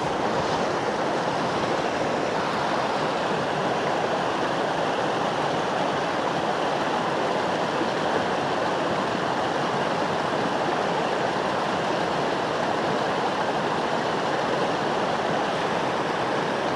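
Mountain creek water flowing, a steady rushing sound with no breaks.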